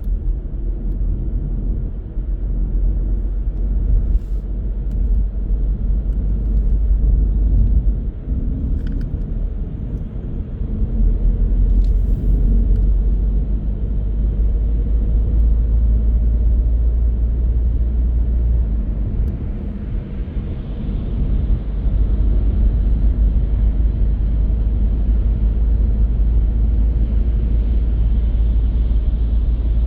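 A car driving on the road: a steady low rumble of engine and road noise that swells and eases slightly, with a few faint clicks.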